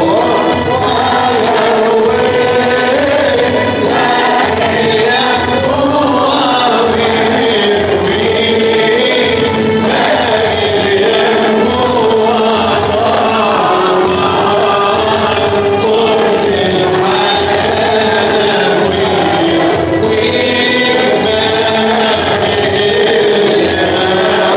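Male voices singing an Arabic Christian hymn in chorus, a continuous, steady melody with music.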